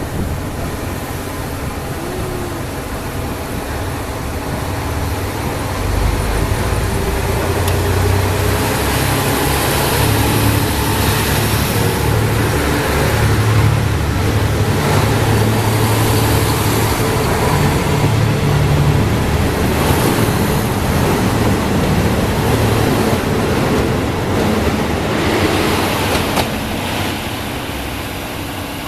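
Diesel train engine running close by. Its low, steady engine note grows louder about six seconds in, shifts in pitch a few times, and eases off near the end.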